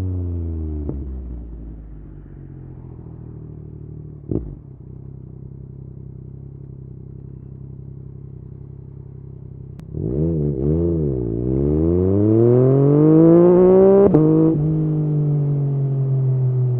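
Yamaha MT-09's inline-three engine through an Akrapovič exhaust. The revs fall away and it runs quietly for several seconds. About ten seconds in it comes back loud, its pitch dips and then climbs steadily under acceleration, then drops sharply at a gear change and eases slowly down.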